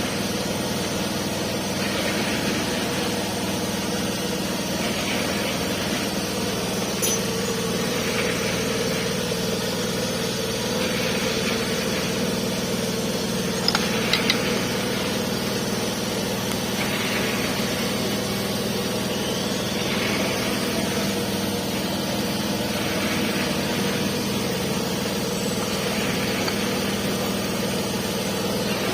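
Steady mechanical hum of a running machine, with a soft swell repeating about every two seconds and a few light clicks, once about a quarter of the way through and a short cluster about halfway.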